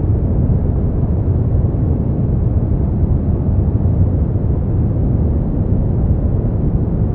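Continuous generated sleep-aid noise: an even, unchanging hiss weighted heavily toward the bass, with no high treble, so it sounds deep and muffled rather than bright.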